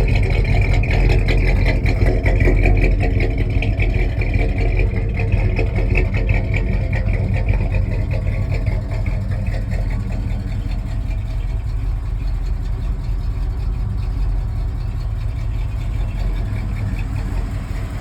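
Oldsmobile 455 cubic-inch V8 with dual four-barrel carburettors running steadily, growing a little quieter through the second half.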